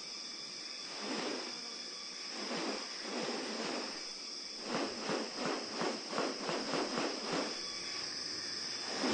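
Rainforest insect chorus: a steady high-pitched buzz. From about halfway, a run of quick rhythmic pulses, about three a second, sounds over it for around three seconds.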